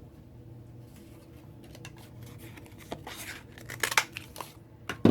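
Cardstock and sponge being handled and cut on a craft table: a few short papery scrapes and clicks in the second half, the loudest a sharp click near the end, over a low steady hum.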